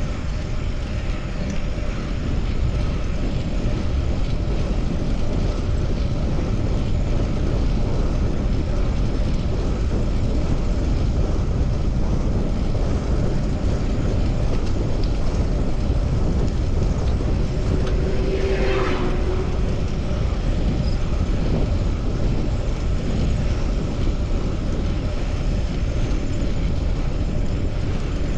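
Steady rushing wind and road noise of a moving bicycle ride, heaviest in the lows, with one short higher-pitched sound about two-thirds of the way through.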